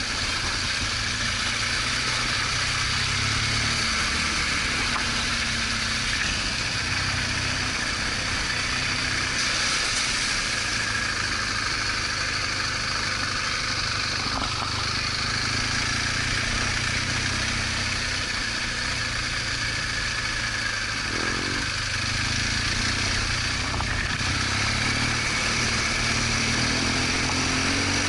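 BMW R1200GS Adventure motorcycle's boxer-twin engine running steadily under an even hiss of noise.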